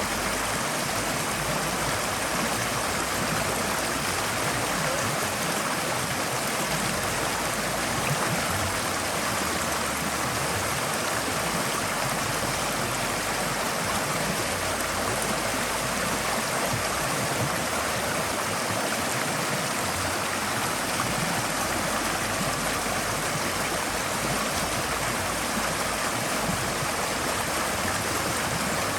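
Forest stream flowing steadily over rocks, a continuous, even rushing of water.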